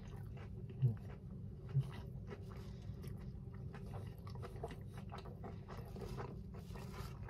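A person chewing a mouthful of toasted tuna sub with the mouth closed: soft, quiet, repeated wet clicks and crunches, with two brief low sounds about one and two seconds in.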